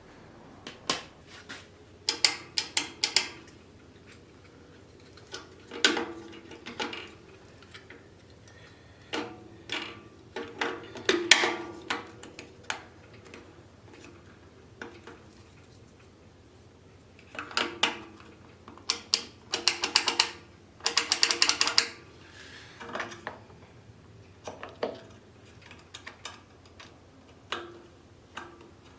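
Irregular mechanical clicks and clatter, with several short bursts of rapid clicking.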